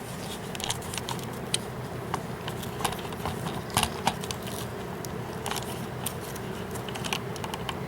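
1971 Electrohome 20-inch box fan running steadily on its low setting, a constant motor and blade hum. Irregular sharp clicks and ticks sound over it throughout.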